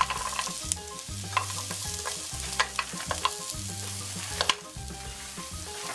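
Onion, bell peppers and cubes of meat substitute sizzling in hot oil in a nonstick pot, with irregular sharp clicks and knocks as the pieces are added and a wooden spoon stirs them.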